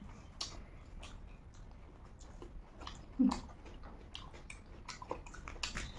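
Close-up eating sounds of two people eating rice by hand: wet chewing and scattered smacking clicks of lips and mouths, with one short louder low sound about three seconds in.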